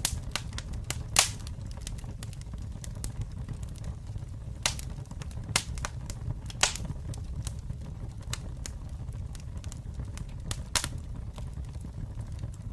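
Campfire burning, with irregular sharp crackles and pops of the wood over a steady low rumble of the flames; the loudest pop comes about a second in.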